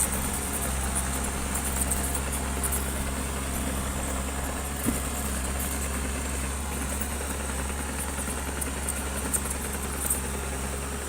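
Heavy construction machine's engine running steadily, with a single sharp knock about five seconds in.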